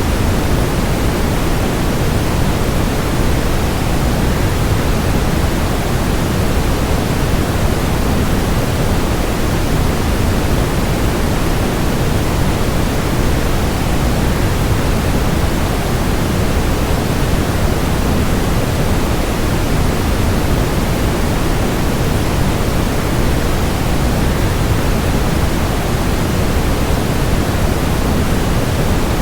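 A waterfall's steady, unbroken rush of falling water, heaviest in the low end with a softer hiss above.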